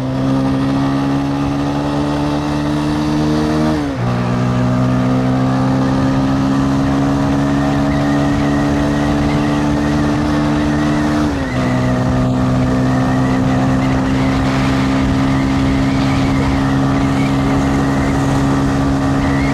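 Carburetted motorcycle engine pulling under load, its pitch climbing steadily and dropping sharply at two upshifts, about four seconds in and again about eleven seconds in, over a steady rush of wind and road noise.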